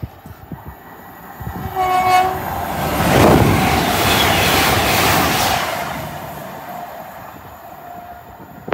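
LNER Azuma high-speed train giving a short horn blast about two seconds in, then rushing past close by at speed. The passing noise peaks a second later and fades away as the train recedes.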